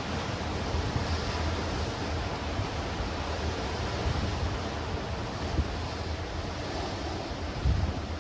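Sea waves washing against rocks and stones, a steady rushing surf. Wind buffets the microphone in low rumbling gusts, the strongest near the end.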